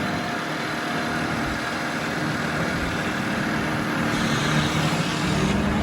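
Car engine running steadily under heavy wind and road noise.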